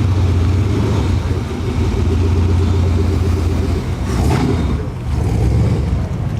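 Car engine running with a deep, steady low rumble, with a brief noisy burst about four seconds in.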